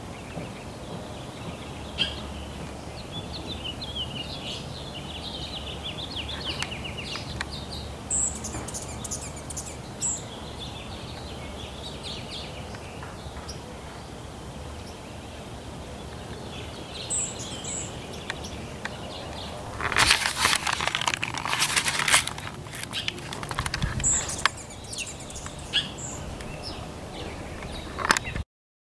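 Small birds chirping and twittering intermittently over a steady low background rumble, with a louder, noisy burst lasting about three seconds roughly two-thirds of the way in.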